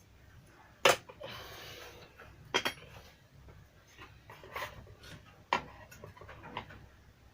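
Several sharp clicks and knocks of small hard objects being handled, the loudest about a second in, with a short hiss just after it.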